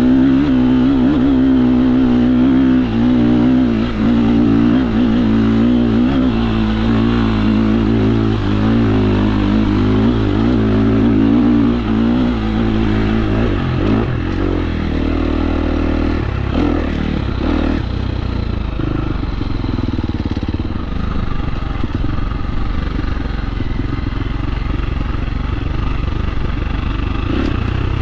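KTM 350 SX-F four-stroke single-cylinder dirt bike engine running on trail, its pitch rising and falling with the throttle for the first half. It then settles lower and steadier, with a few clattering knocks about halfway through.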